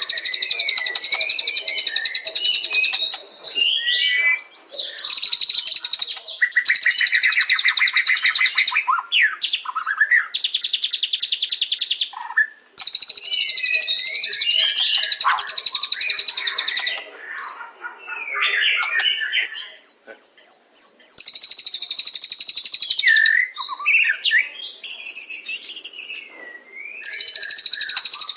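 White-rumped shama singing: long runs of very rapid, high trilling broken by varied whistled phrases and brief pauses.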